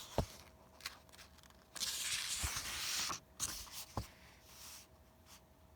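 A soft papery rustle about two seconds in, lasting just over a second, like a book page being turned, with a few faint clicks around it.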